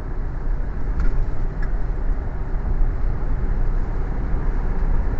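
Steady road and engine noise of a car while driving, heard from inside the cabin.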